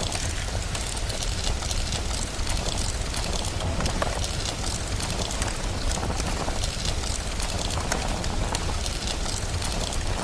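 Steady rain hiss mixed with the crackle and pops of a wood fire, over a constant low rumble.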